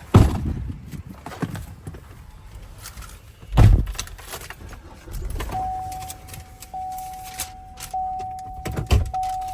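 Knocks and a heavy thump in a vehicle, then a vehicle's warning chime starting about halfway through: one steady tone, broken briefly about once a second.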